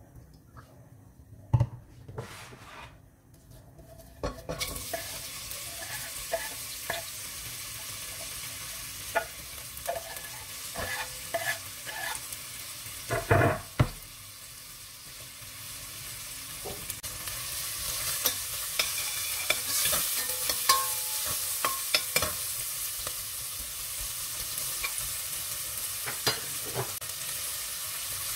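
Sliced onion and chopped garlic sizzling in hot olive oil in a stainless steel pot, with knocks and scrapes of a utensil against the pot as they are tipped in and stirred. The sizzle starts about four seconds in and grows louder past the halfway point.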